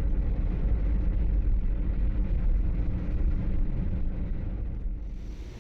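Steady low rumble of a moving vehicle, fading toward the end.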